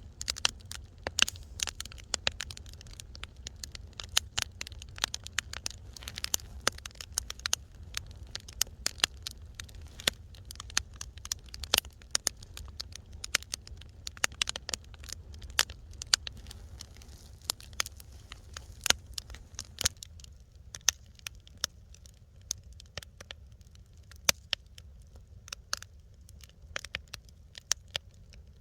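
Wood fire crackling in a fireplace: many sharp snaps and pops at irregular intervals over a low steady rumble. The background hiss drops a little after about twenty seconds.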